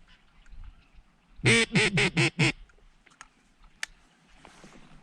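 Duck call blown in a quick run of about five quacks, about a second and a half in, to call passing ducks in to the hunter.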